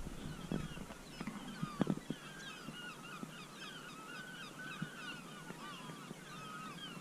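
Many seagulls calling at once, a continuous chorus of short overlapping calls, with a few soft knocks about two seconds in.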